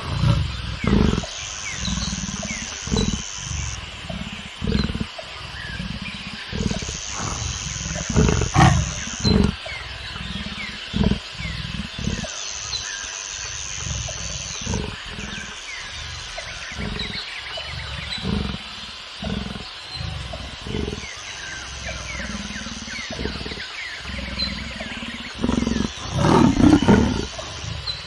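Leopard calling in a long series of low, short grunts, about one every second or so, with a louder growling burst near the end. A high steady buzz starts and stops several times behind it.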